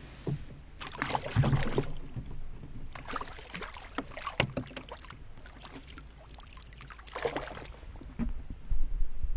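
Water splashing and sloshing in three bursts, over a steady low rumble.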